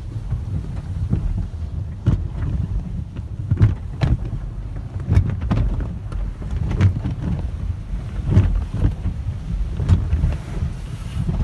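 Car wash tunnel heard from inside the car: a steady low rumble and rush of water against the body, with irregular slaps and thuds of the soft-cloth wash striking the panels and glass.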